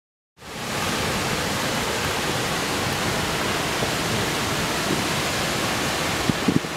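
Waterfall pouring heavily after rain, a steady rush of water that cuts in sharply about half a second in. A few brief low thumps come near the end.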